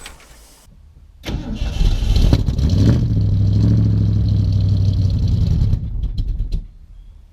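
Ford 400 V8 engine cranked over, catching about a second in and running unevenly for around four seconds, then dying out with a few sputtering pops near the end: an engine that has sat for years and will not yet keep running.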